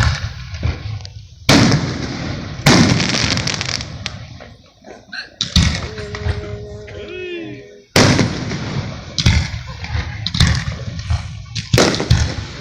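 Fireworks going off in a series of about seven sharp bangs, each trailing off in a rumbling echo, spaced a few seconds apart and coming closer together in the second half.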